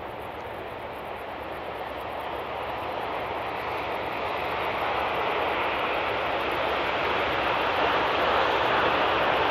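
Diesel-hauled freight train of open coal wagons running past, a steady rumble of locomotive and rolling wheels that grows steadily louder as it approaches.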